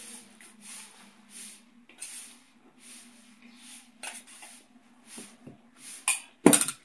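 Close-miked eating sounds: chewing and lip smacking in short noisy bursts about every two-thirds of a second, with a louder, sharper smack near the end. A faint steady hum runs underneath.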